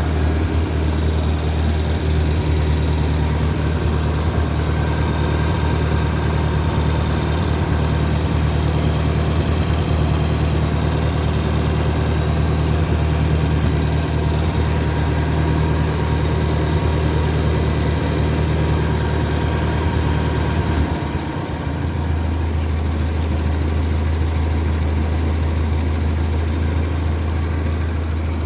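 1963 Ford 2000 tractor engine running steadily, newly brought back to life with a new carburettor after sitting for five years. About three-quarters of the way through, its note drops lower and it settles into a steady idle.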